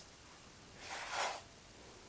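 A single brief rustle about a second in, lasting about half a second, against quiet room tone.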